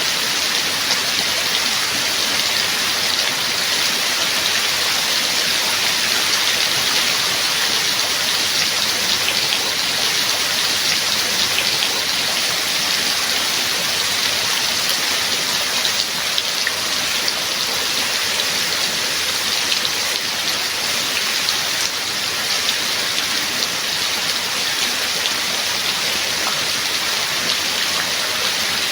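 Steady rain falling: a dense, even hiss scattered with the sharp ticks of single drops.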